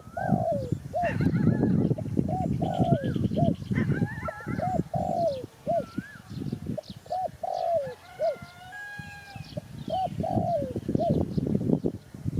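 Spotted dove cooing over and over in short low phrases, the notes falling in pitch. Other small birds chirp and whistle higher up.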